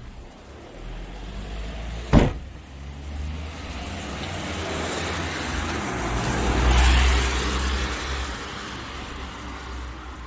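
A car passing by, its tyre and engine noise swelling to a peak and fading away. A sharp knock about two seconds in is the loudest single sound.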